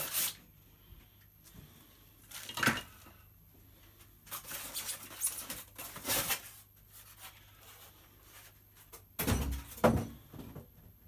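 Handling noise from unboxing a bandsaw: the cardboard box and packaging scraping and rustling in short spells, with a heavier knock near the end.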